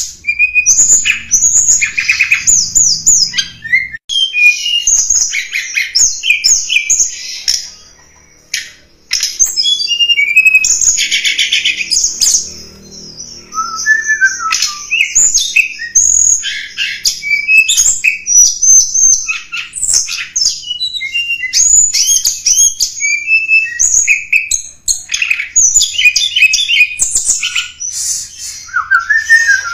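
Song of the tledekan gunung, played as a lure call: a fast, high-pitched run of chirps, trills and twittering phrases that goes on almost without a break, dropping away briefly twice.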